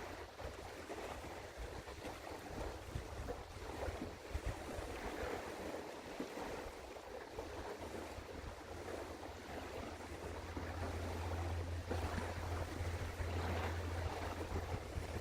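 Low, steady engine hum of a passing container ship under a haze of wind on the microphone and water noise; the hum grows louder about two-thirds of the way in.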